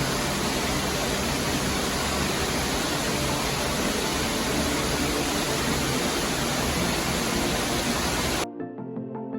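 Steady, loud rushing noise with a low hum underneath. It cuts off suddenly about eight and a half seconds in, and background music with clear notes takes over.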